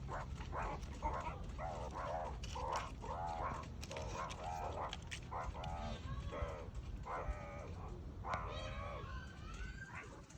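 Meerkats calling: a rapid string of short, pitched chirps and barks, several a second, bending up and down in pitch, with a longer, higher call near the end. A steady low rumble runs underneath.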